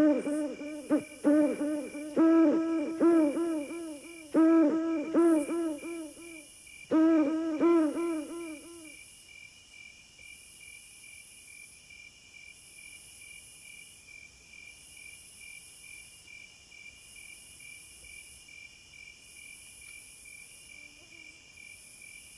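An owl calling in several bursts of quick, short hoots that rise and fall in pitch, running for about the first nine seconds over a steady, evenly pulsing chirp of crickets. Once the owl stops, the crickets and a fainter, higher insect pulse carry on alone.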